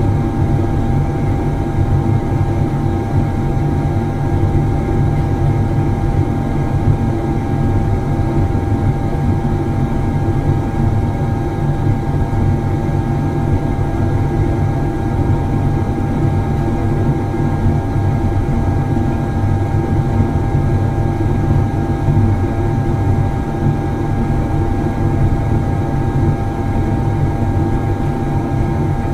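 Factory machinery running steadily: a constant low rumble with a steady hum-like tone over it, unchanging throughout.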